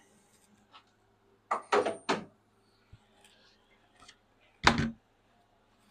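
Knocks and clatter of hard parts and tools being handled during work on a hydraulic control valve: a quick cluster of three sharp knocks about a second and a half in, then one heavier thunk near the end, over a faint steady hum.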